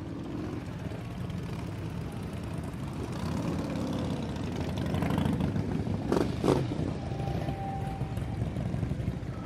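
Motorcycle engines running with a steady low rumble that swells a little partway through. Two sharp knocks come just past the middle, followed by a short steady tone.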